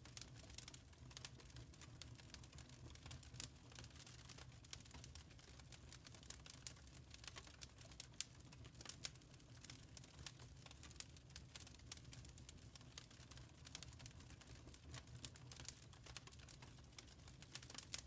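Wood fire crackling in a fireplace: faint, irregular snaps and pops over a low steady rumble.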